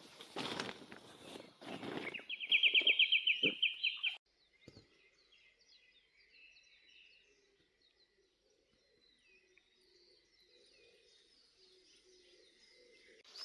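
A few noisy rustling strokes, then a loud, fast trill of about two seconds. It stops abruptly, leaving faint birdsong over quiet outdoor background.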